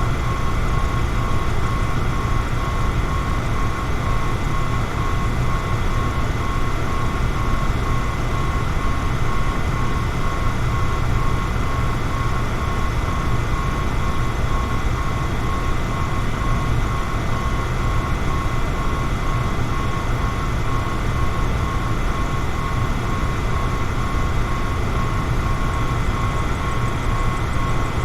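A fan running steadily: a low rushing drone with a faint, even whine above it.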